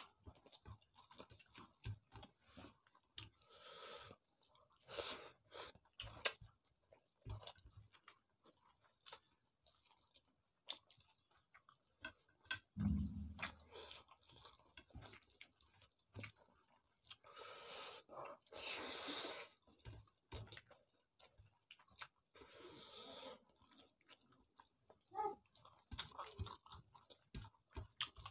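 Faint chewing and mouth noises of people eating rice and fish curry with their hands: a string of small wet clicks with a few longer stretches of noise. There is one low thump about 13 seconds in.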